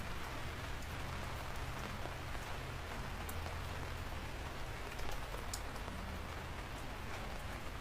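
Steady rain falling, a continuous hiss with scattered sharp drop ticks and a low rumble underneath.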